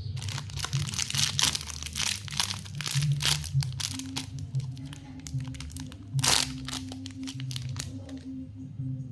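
Plastic lollipop wrappers crinkling as they are handled, a dense run of crackles with one louder crackle about two-thirds of the way through, stopping about a second before the end.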